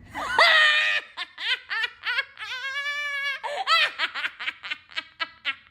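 A person laughing after the punchline of a joke: quick, high-pitched bursts of giggling, with one drawn-out note about halfway through.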